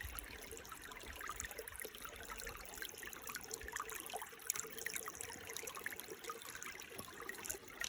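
Shallow water trickling over rocks: a steady babble made of many small, irregular splashes.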